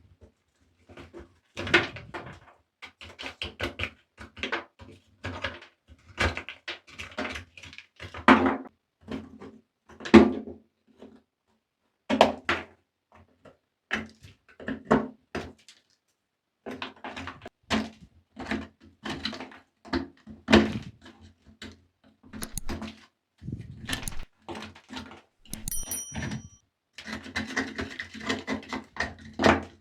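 Close, irregular clicks, taps and knocks of a small diecast toy motorcycle and hard cleaning tools being handled on a surface, with a short high ringing ping near the end.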